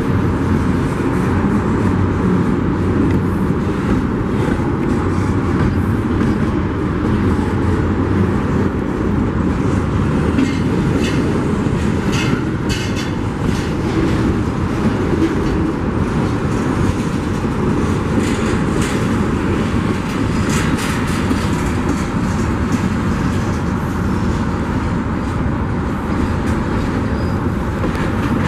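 Union Pacific freight train rolling past, its cars giving a steady rumble and clatter on the rails. Sharp metallic clicks and clanks from the wheels and couplers cluster about ten to thirteen seconds in and again around twenty seconds.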